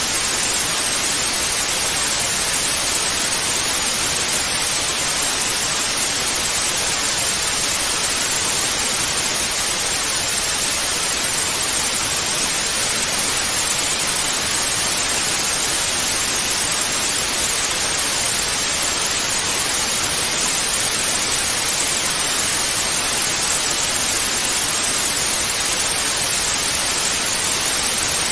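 Television static (white noise): a steady, unchanging hiss, stronger in the high range than in the bass.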